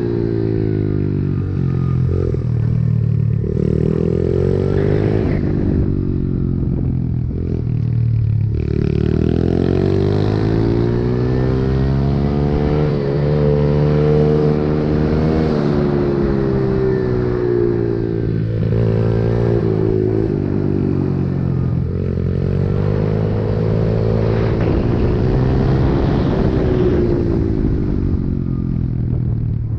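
Pit bike's small single-cylinder engine running hard, its pitch climbing and dropping back again and again as the throttle is opened and closed.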